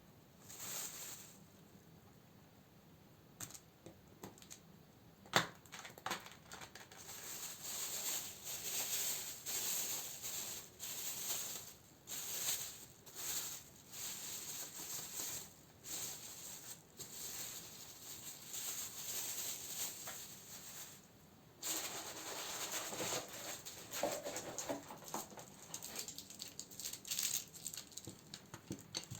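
Candles and their plastic and paper wrappings being handled: crinkling and rustling in short, uneven bouts, with a sharp tap about five seconds in.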